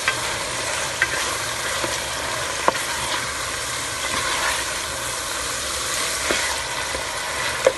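Chicken pieces with onion and garlic sizzling in butter in a metal pot, stirred with a plastic spoon that knocks sharply against the pot a few times.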